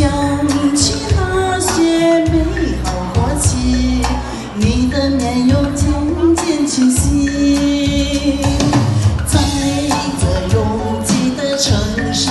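A woman singing a slow Mandarin pop ballad over recorded backing music with drums, holding long notes that glide between pitches.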